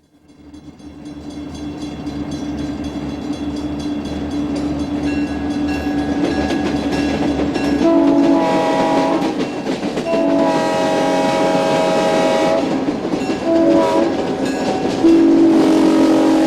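Diesel locomotive running, heard from its cab, fading in at the start, with the multi-note air horn sounding four times from about eight seconds in: long, long, short, long, the grade-crossing signal, with the last blast still sounding at the end.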